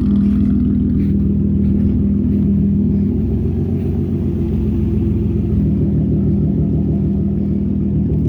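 Car engine running at low speed, a steady hum that shifts slightly in pitch about three seconds in and again past the middle.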